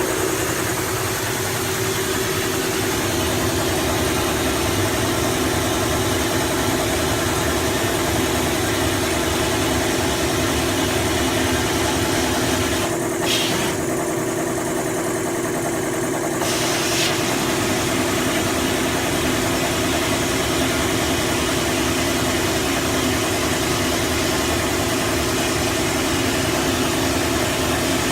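Vapor Honing Technologies 800P wet blast cabinet in use: a steady machine hum with the hiss of compressed air blasting through the gun. The hiss drops out for about three seconds about halfway through, then resumes.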